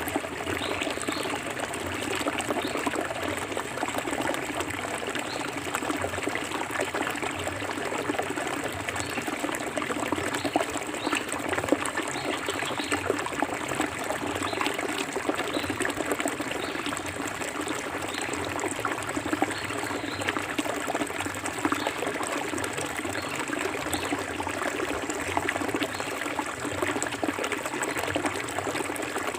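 A clear forest stream flowing and splashing steadily over rocks, with a continuous rush and many small trickles.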